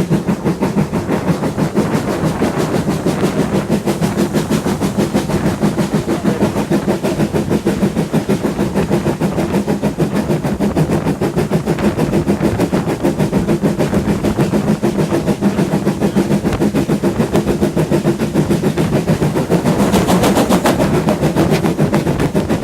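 Steam-hauled heritage train on the move: a fast, even rhythmic beat over a steady low drone, with a burst of hiss about twenty seconds in.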